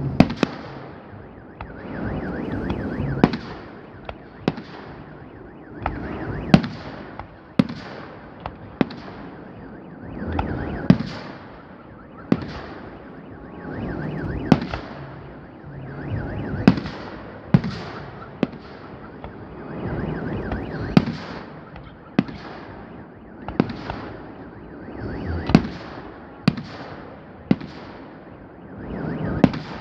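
Fireworks display: shells bursting with sharp bangs every second or two, over swelling waves of rumble and crackle.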